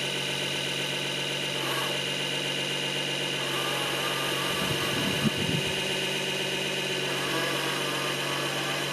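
Small electric water pump of a toy RC fire truck running steadily under constant activation as it sprays out its tank, a steady motor hum and whine. A brief low knock about five seconds in.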